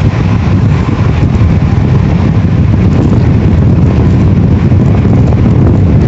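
Steady, loud running rumble of a High Speed Train at speed, heard from on board: wheels and bogies on the track with a constant low roar.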